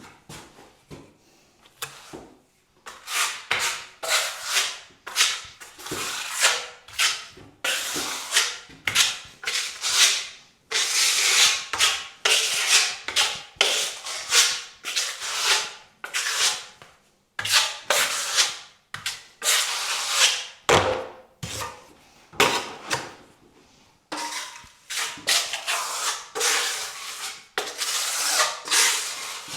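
Filler being spread and scraped across a wall with a filling knife, in a long run of repeated scraping strokes, some short and some a second or two long.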